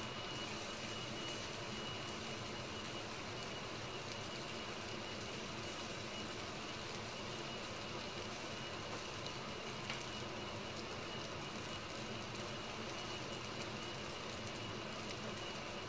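Slices of smoked tofu sizzling steadily in hot oil in a nonstick frying pan, with one faint click about ten seconds in.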